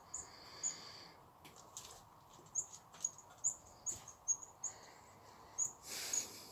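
Small birds chirping: a dozen or so brief, high chirps, scattered irregularly. A short rustle comes near the start and again near the end.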